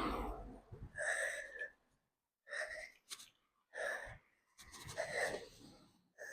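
A cyclist breathing hard while riding, in a steady rhythm of about one breath every second and a bit.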